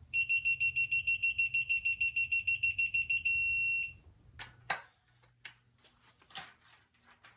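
Craftsman digital torque-angle wrench beeping rapidly, about eight high beeps a second, then holding one steady tone for about half a second as the set angle on a cylinder-head bolt is reached. A few light clicks and knocks of the wrench and socket follow.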